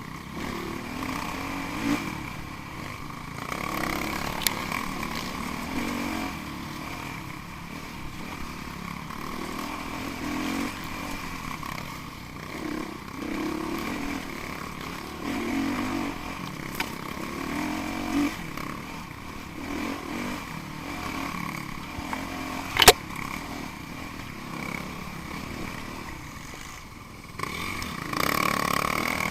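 Enduro dirt bike engines running and revving, the engine note swelling and falling back every couple of seconds, with a single sharp click or knock about three-quarters of the way through.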